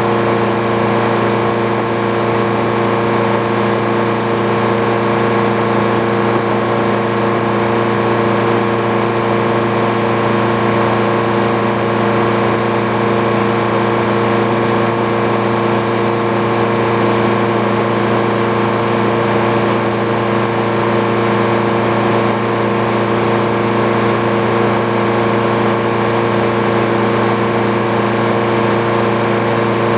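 Engine powering a Frick sawmill, running at a steady speed with an even hum that does not change in pitch or loudness.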